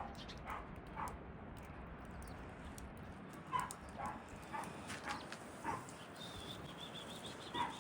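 Small birds giving short, scattered chirps, one at a time, with pauses between them.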